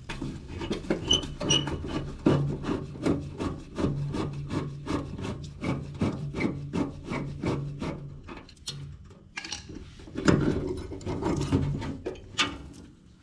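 Hand scraping strokes on a metal part, back and forth at about two to three strokes a second, pausing briefly and then coming louder for a couple of seconds near the end.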